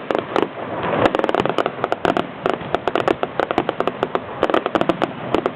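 Fireworks going off: a dense, continuous run of sharp crackling bangs, several a second and overlapping.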